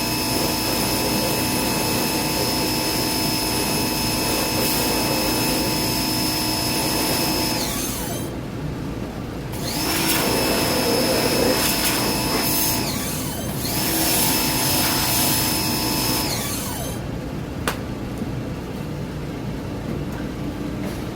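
An electric motor-driven cleaning machine running with a steady whine, switched off and on: it winds down about a third of the way in, runs again twice for a few seconds, and winds down each time. A single sharp click follows near the end.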